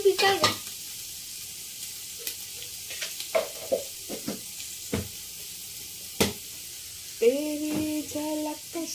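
Chopped onions cooking in oil and liquid in a large aluminium pot on a gas stove, a steady sizzling hiss, with a few sharp clicks and knocks of utensils on the pot.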